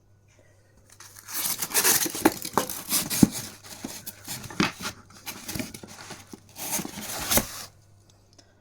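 Packaging being torn and crumpled by hand while a flat-pack cabinet kit is unpacked: a dense rustle with sharp crackles and clicks that starts about a second in and stops shortly before the end.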